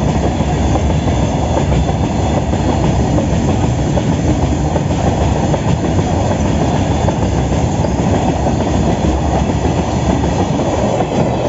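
Train rolling past at speed, its wheels clattering steadily over the rails.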